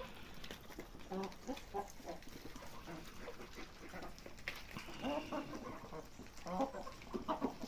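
Chickens clucking in short runs of calls, about a second in, around five seconds in and again near the end.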